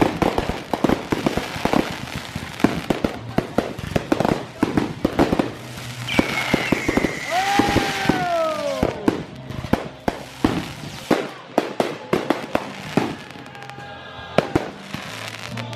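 Fireworks going off in quick, irregular succession: a steady run of bangs, pops and crackles. Several whistling tones fall in pitch from about six to nine seconds in.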